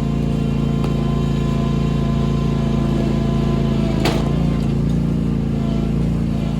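Engine running steadily at an even speed, with one sharp knock about four seconds in.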